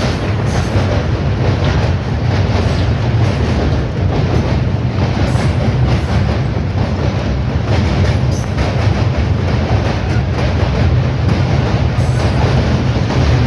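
Passenger train running across a steel truss railway bridge, heard from the coach window: a loud, deep, steady rumble of wheels on rails and bridge steelwork.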